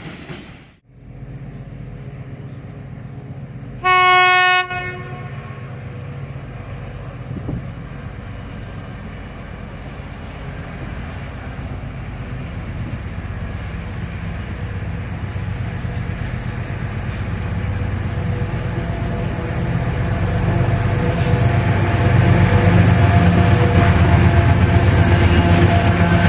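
A locomotive horn sounds one short blast, then the running noise of a train builds steadily as it approaches and grows loud near the end.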